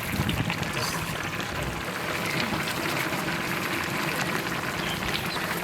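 A large pot of fish curry bubbling at a steady boil, with a continuous crackling hiss.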